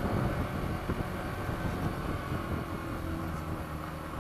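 Yamaha XTZ 125 motorcycle's single-cylinder four-stroke engine running steadily while riding along a street, with wind and road noise.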